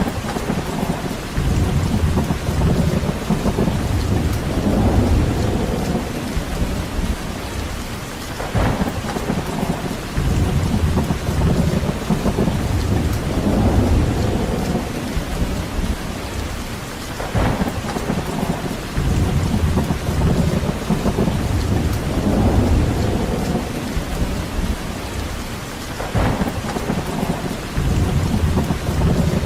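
Steady rain with a deep low rumble that swells and fades every few seconds, and a brief sharp crack about every nine seconds.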